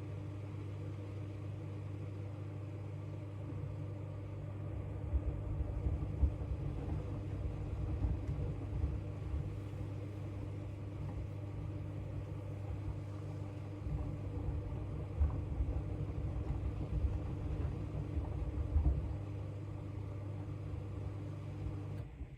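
Front-loading washing machine running its drum, a steady motor hum with irregular low thuds from the wet bath mats tumbling inside. The motor stops suddenly near the end.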